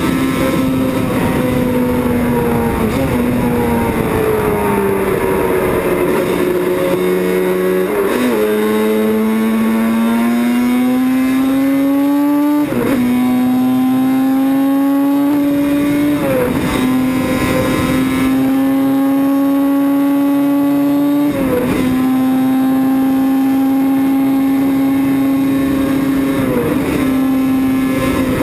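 Yamaha YZR750 OW31 two-stroke four-cylinder racing engine running hard. Its pitch sinks over the first few seconds, then climbs steadily through the gears with a short dip at each of about five upshifts.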